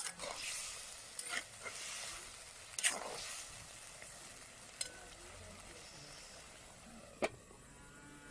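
Food sizzling in a cooking pot while a spoon stirs and scrapes against it, with a handful of sharp knocks and scrapes, the loudest about three seconds in.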